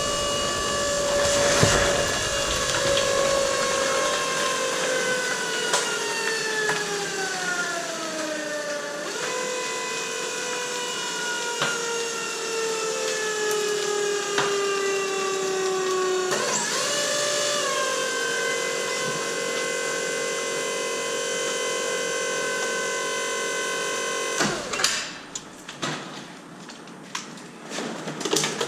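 Electric motor of a PET bottle mini baler whining, its pitch sinking steadily as it slows under the compaction load, twice over; then it jumps back up to a steady whine and cuts off abruptly about 24 seconds in, followed by a few knocks.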